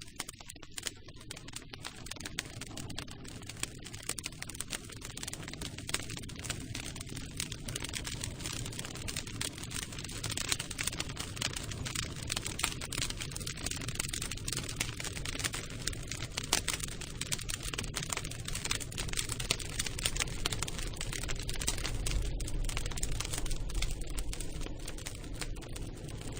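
Campfire crackling: wood snapping and popping in dense, irregular clicks over a low rumble of flames, fading in at the start and growing gradually louder.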